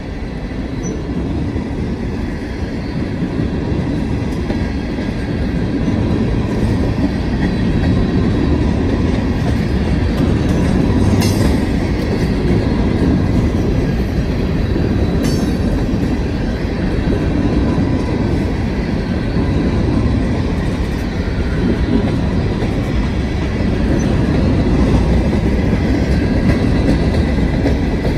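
Freight train cars, gondolas and hopper cars, rolling past at close range: a steady rumble of steel wheels on rail with clickety-clack that builds over the first several seconds, and a couple of sharp metallic clicks partway through.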